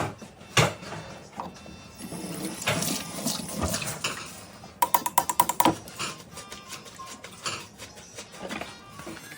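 Kitchen dishes and utensils being handled, knocking and clinking irregularly, with a quick run of light ringing clinks about five seconds in.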